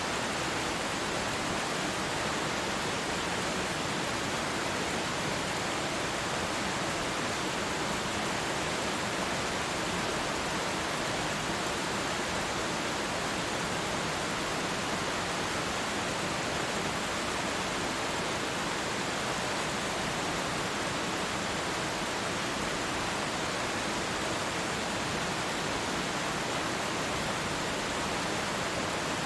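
Waterfall: falling water rushing steadily and evenly, with no breaks or changes.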